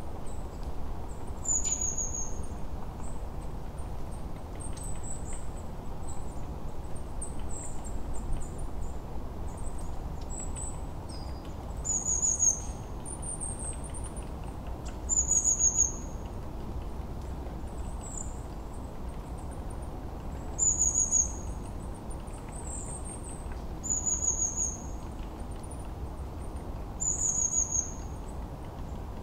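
Small bird giving short, very high, falling chirps, repeated every two to three seconds over a steady low rumble.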